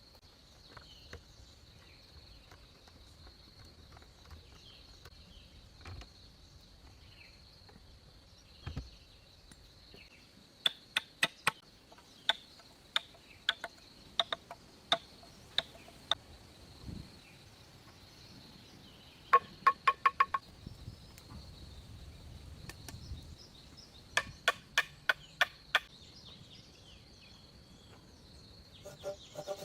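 Several bursts of rapid, sharp clicks or taps, the busiest a quick rattling run of about a second, over a steady high thin whine.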